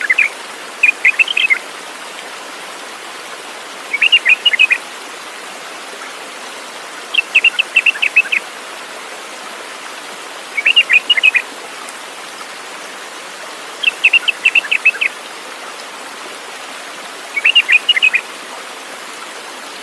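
A songbird singing short phrases of quick chirping notes, one phrase about every three seconds, over a steady hiss in the background.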